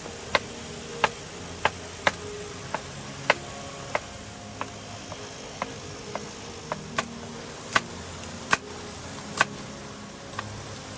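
Irregular sharp ticks and clicks, some louder than others, over a steady hiss.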